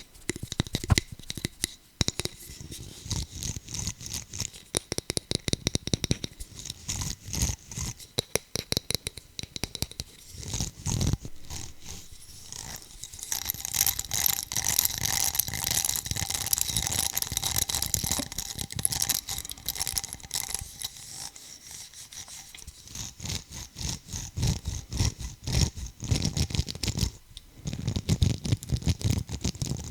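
Rapid tapping and scratching on an object by hand, with a spell of steadier scraping in the middle.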